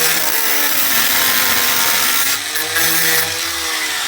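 Handheld power cutoff tool grinding through a steel filler rod TIG-welded to a car door panel: a loud, steady hissing grind over a motor whine whose pitch sags and recovers as the tool bites.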